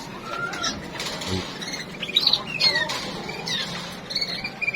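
Caged canaries chirping: many short, quick calls and brief rising and falling notes, overlapping.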